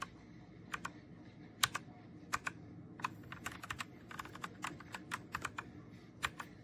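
Typing on a Redragon K617 Fizz 60% mechanical keyboard: irregular keystroke clicks, coming quicker in a burst through the middle.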